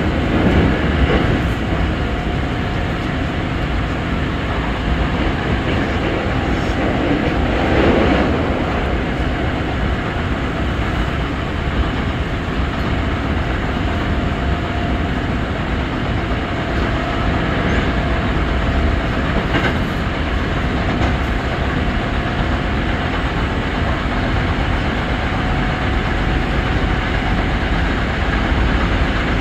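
Hankyu 5300 series electric train running at speed, heard from inside the car: a steady rumble of wheels on rail with a faint steady whine and some rail-joint clacking. It swells briefly louder about eight seconds in.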